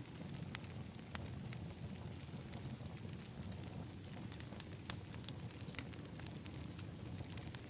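Wood fire crackling in an outdoor fire pit: irregular sharp pops and snaps, one or two a second, over a low steady rumble.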